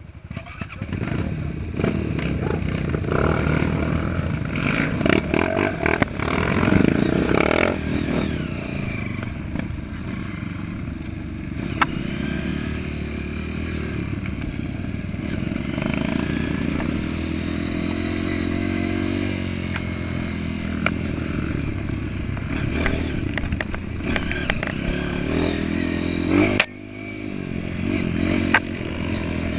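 Off-road trail motorcycle engine running under way, revving up and down, with a few sharp knocks. Near the end the engine note drops suddenly, then climbs again.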